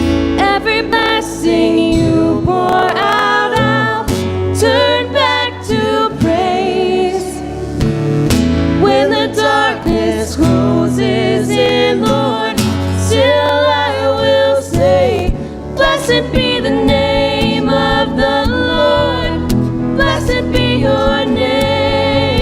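Worship song in progress: voices singing over strummed acoustic guitar and a steady bass line.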